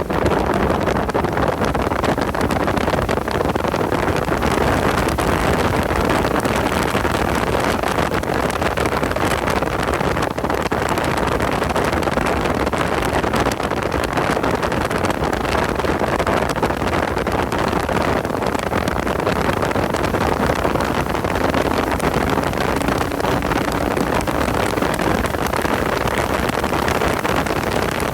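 Car running at speed on a race track: a steady, loud mix of engine and wind noise.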